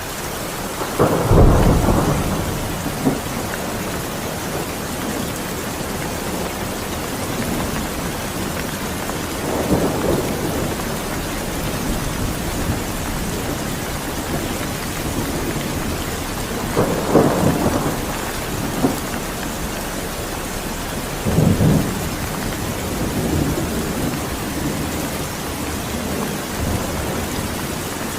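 Steady rain with several rolls of thunder breaking through it. The loudest comes about a second in, and the others follow around ten, seventeen and twenty-one seconds in.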